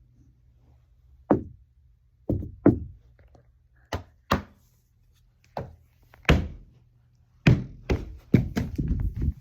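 A run of sharp knocks and thuds, some in pairs, coming faster near the end.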